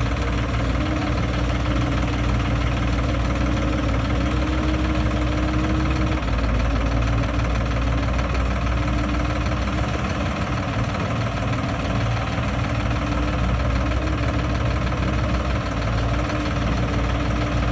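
Sonalika tractor's diesel engine running at a steady speed, with no change in revs.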